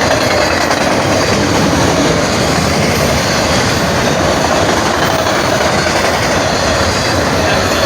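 Freight train rolling past close by: a loud, steady rumble and clatter of the cars' wheels on the rails.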